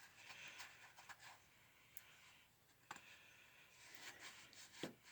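Very faint hand work on the truck engine's thermostat housing: soft rubbing and scraping with a few light clicks, the sharpest about three seconds in and another near the end.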